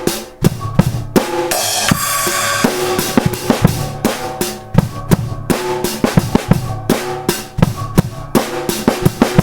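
Drum kit being played in a steady groove of bass drum and snare strikes, with a cymbal crash ringing out for about a second near the start.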